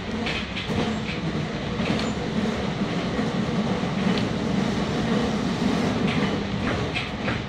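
Meitetsu 6500 series electric train heard from inside the passenger car while running: a steady running noise with a low hum, broken by a few short clicks from the wheels.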